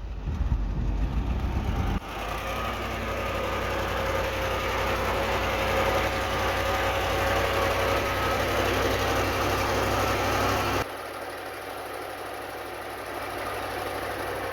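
Heavy earthmoving machinery's diesel engine running steadily with a low rumble. The sound changes abruptly about two seconds in and again about eleven seconds in.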